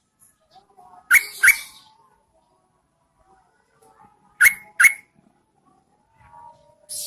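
Yellow-vented bulbul giving short, sharp call notes in pairs: two notes about half a second apart, then two more about three seconds later, with a fainter raspy note near the end. This is a female's call, used as a lure to draw males.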